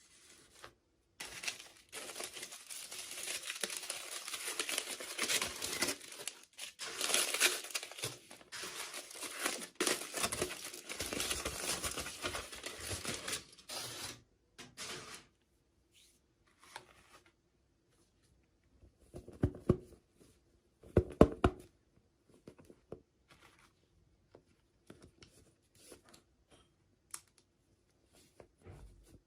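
Toy packaging being torn open and crinkled, a dense crackling rip for the first half. After that come scattered small plastic clicks and two louder handling knocks about two-thirds of the way through.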